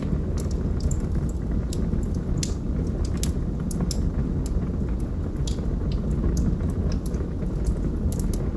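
Wood fire burning in a fireplace: a steady low rush of flame with irregular sharp crackles and pops from the burning logs, several each second.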